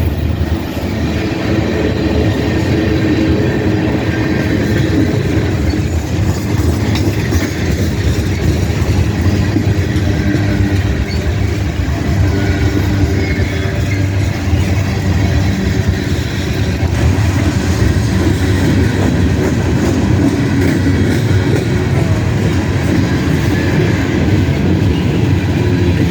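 Freight cars of a CSX manifest train rolling past, steel wheels running steadily over the rails with no letup.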